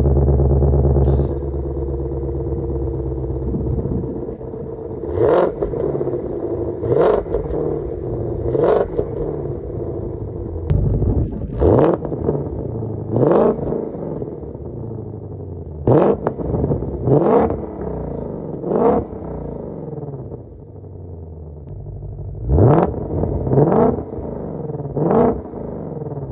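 Car engine idling through its factory exhaust, loud in the first second and then settling. It is blipped in four groups of two or three short revs, each rising in pitch and dropping back to idle, as the exhaust is tried in its different modes.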